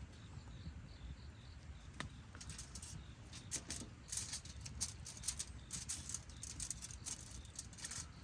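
Wood fire crackling, with irregular sharp clicks that grow frequent from about three seconds in over a low steady rumble.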